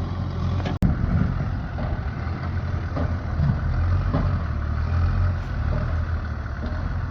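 An engine running steadily with a low hum, broken by a sudden brief dropout about a second in.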